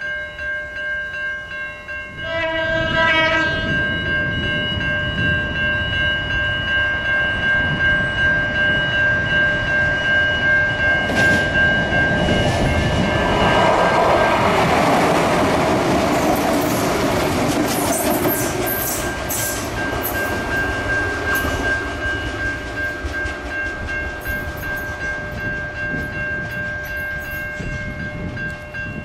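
Suburban trains: a short horn blast about two seconds in, then an Adelaide Metro 3000-class diesel railcar passing close, its wheels clacking over the rails. The pass is loudest around the middle, and a steady high whine runs underneath.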